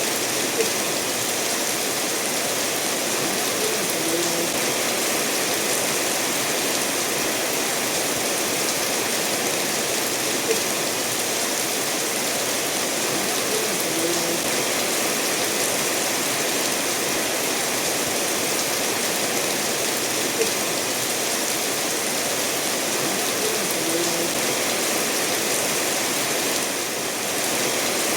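Steady rain falling together with the rush of a flowing stream over stones, an even unbroken hiss with short plinks of drips every few seconds.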